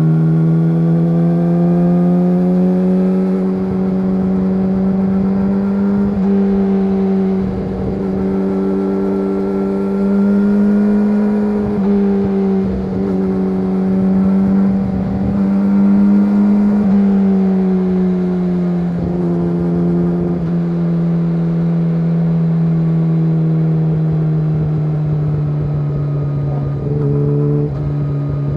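Yamaha YZF-R6 inline-four engine running through an SC-Project SC1-R exhaust at a steady, moderate pace while being ridden. The engine note slowly rises and falls, with several brief dips along the way.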